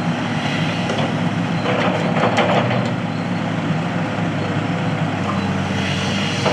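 Heavy truck engine running steadily, with a brief rush of noise about two seconds in.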